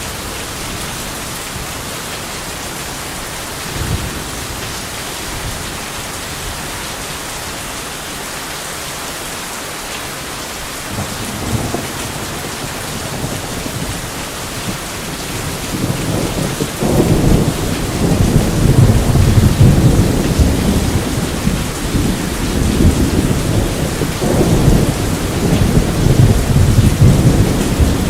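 Steady heavy rain with thunder: a brief rumble about four seconds in, then thunder building from about halfway and rolling loudly through the last third.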